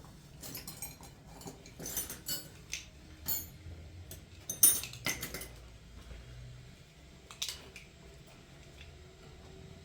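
Metal tools and parts clinking and clattering as they are handled, a run of sharp knocks with the loudest about halfway through, then a few sparser clinks.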